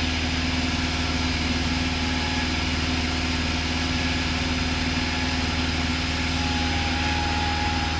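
Cessna 172's single piston engine and propeller droning steadily in cruise, heard from inside the cabin.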